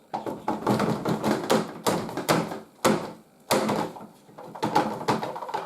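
Plastic rattling and clattering as the dust filter of a Moulinex 237/320 handheld vacuum cleaner is shaken and knocked to free the dirt caked on it, with several sharper knocks among the rattle.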